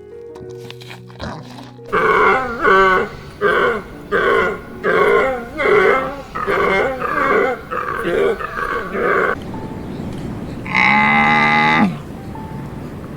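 An animal calling: a fast run of short pitched calls, about two a second, for some seven seconds, then one longer call, over background music.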